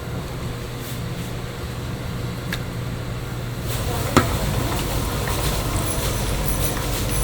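Steady low hum of kitchen machinery, with a few sharp clicks and a louder knock about four seconds in, after which the hum grows slightly louder.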